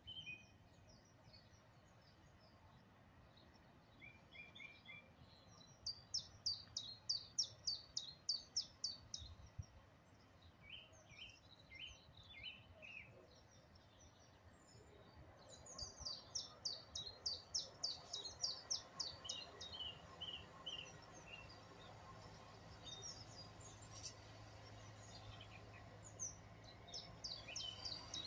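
Songbirds singing: groups of quick, high chirping phrases repeated several times over a faint background, with a faint low hum beneath them near the end.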